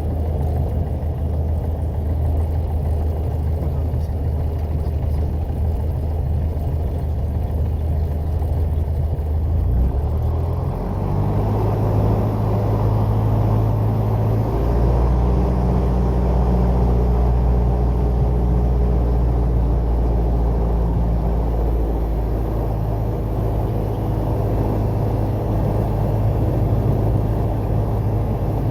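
Piper PA-28 Warrior light aircraft's piston engine running steadily, with its note shifting to a different pitch about ten seconds in as the power setting changes.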